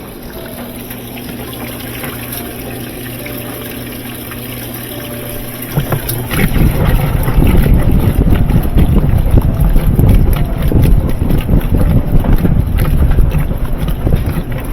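Top-loading washing machine running with water in it: a steady motor hum, then about six seconds in a much louder, rough churning rumble with water noise.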